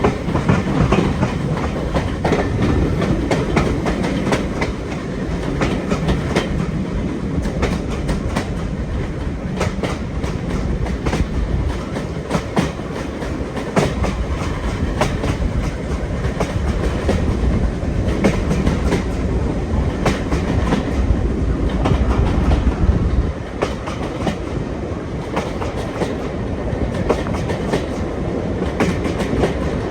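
Train running along the line, wheels clicking over the rail joints over a steady rumble; the low rumble eases about three-quarters of the way through.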